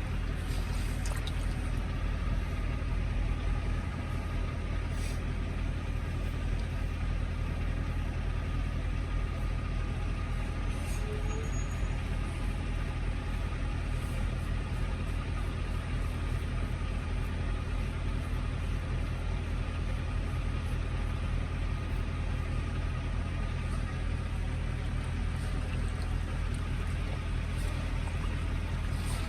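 Diesel semi-truck engine idling: a steady, even low rumble that does not change.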